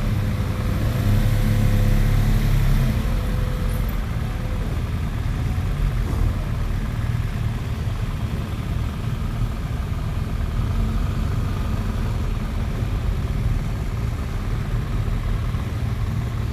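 Motorcycle engines idling on a ferry's enclosed vehicle deck: a steady low rumble, louder for the first three seconds or so.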